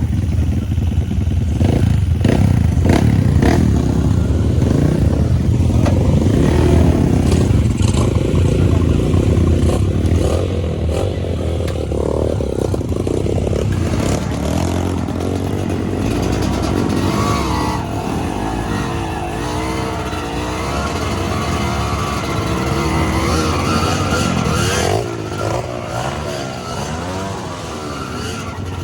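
Suzuki TS125X two-stroke single-cylinder trail motorcycle engine running under way, its pitch rising and falling as the throttle opens and closes. Scattered clattering knocks come in the first half.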